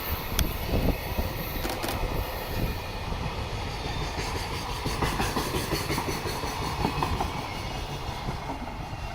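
Freight train passing through a station, its wagons' wheels rumbling steadily on the rails, with a few sharp clacks over rail joints in the first two seconds.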